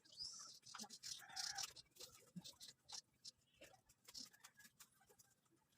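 Near silence, with faint scattered clicks and a few faint high chirps in the first second and a half.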